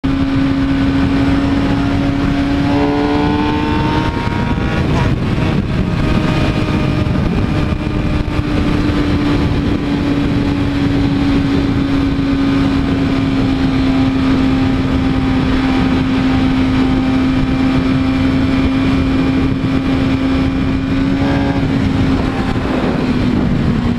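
Motorcycle engine running at a steady speed while riding, its drone holding one pitch and easing slightly lower near the end, over constant road and rushing noise.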